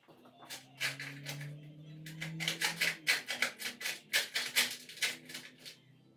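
A quick run of sharp clicks and rattles from hand work on small metal scooter parts, growing denser and louder about two seconds in, over a faint low steady hum.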